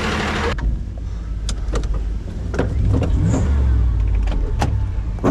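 Tow truck's engine idling with a steady low rumble, after a loud hiss of compressed air from its air system that cuts off sharply about half a second in. Scattered clicks and knocks, with a sharp knock near the end.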